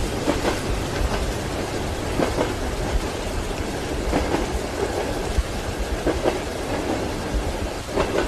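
Train wheels clacking over rail joints in a steady rhythm, a pair of knocks about every two seconds, over a constant low rumble of the moving carriage, with steady rain.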